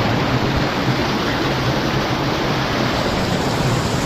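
Steady rush of fast-flowing stream water over rocks.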